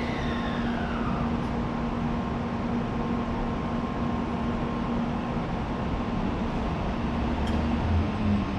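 Shinkansen train running slowly alongside the platform, its motor whine falling in pitch in the first second as it brakes, over a steady hum and rumble.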